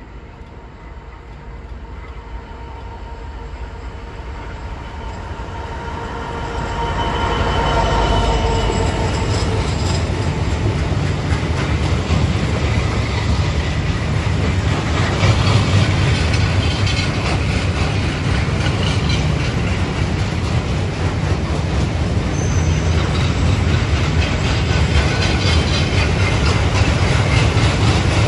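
Diesel freight locomotive approaching and passing, growing louder over the first seven seconds with a squealing note from the wheels. The loaded box wagons follow with a steady heavy rumble and clatter of wheels over the track.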